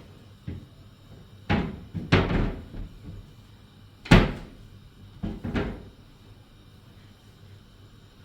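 A series of sharp bangs and thumps, about six in all, the loudest about four seconds in, then quiet background.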